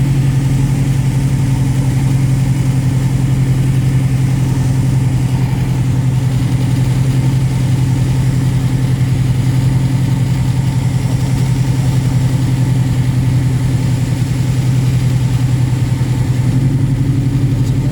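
VariEze light aircraft's piston engine and rear-mounted pusher propeller running at a steady, constant pitch, a loud even drone.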